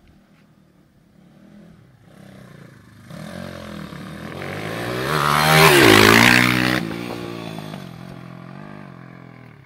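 IMR pit bike with a 145 cc SDG engine riding past. The engine grows louder as it approaches and is loudest about six seconds in, where its pitch drops as it goes by. It then fades away.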